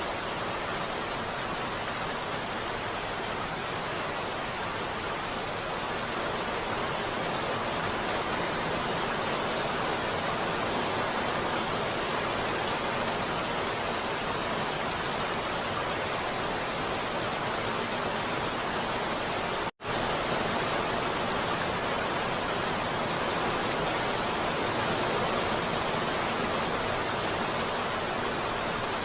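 Steady heavy rain, an even unbroken hiss with no thunder or individual drops standing out. About two-thirds of the way through it cuts out for a split second and comes straight back.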